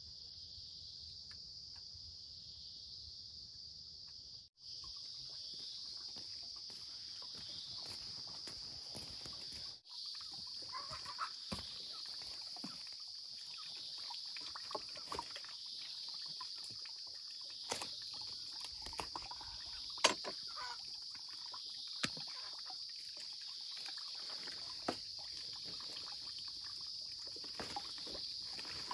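Steady high-pitched insect chorus in the forest, dropping out briefly twice. From about ten seconds in it is joined by scattered light knocks and splashy handling sounds.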